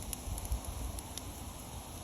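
Wood bonfire burning and crackling, with scattered sharp pops over a steady low rumble.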